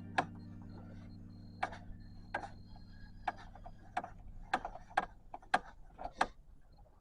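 Sharp metallic clicks and taps of hand tools on the engine, about a dozen, spaced irregularly, over background music that fades out in the first few seconds.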